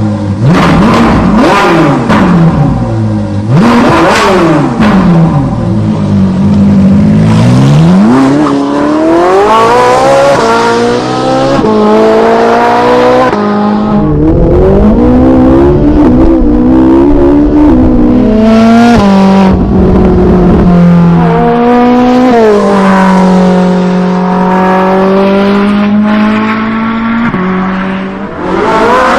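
Car engine revving and accelerating. It gives quick rev blips in the first few seconds, then climbs in pitch several times with a sudden drop between climbs, as in gear changes. It then holds a fairly steady high pitch before rising again at the end.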